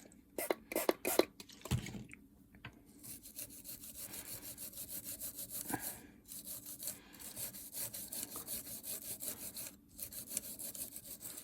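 A few sharp clicks, then quick back-and-forth scrubbing strokes, about four a second, typical of a brush working over a circuit board to clean off solder flux.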